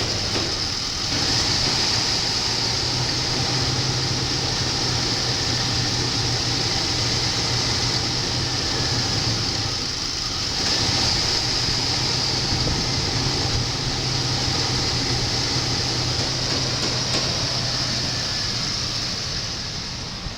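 A 5.7-litre V8 running steadily at a low, even idle, with a brief dip in level about a second in and again about ten seconds in. The tester judges it sounds good.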